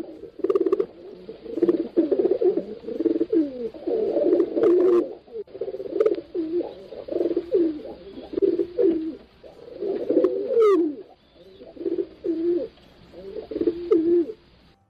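Several pigeons cooing, their low, wavering coos overlapping in a near-continuous run with short pauses. One brief, higher rising call cuts in about ten and a half seconds in.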